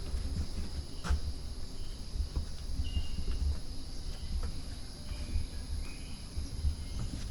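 Insects droning steadily on a high pitch, with a few short bird chirps in the middle and occasional footsteps.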